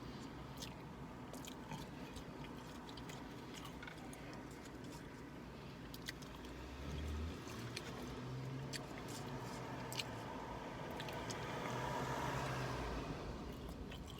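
A person chewing and biting food close to the microphone, with many small wet mouth clicks. A steady low hum runs underneath, and a rushing noise swells and fades near the end.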